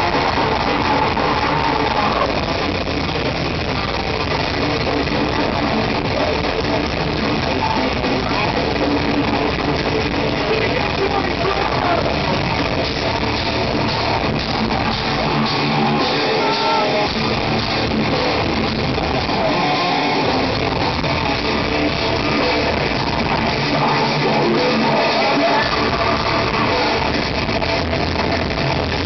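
Heavy metal band playing live: loud, dense distorted guitars and drums in a fan's concert recording with distorted, poor sound.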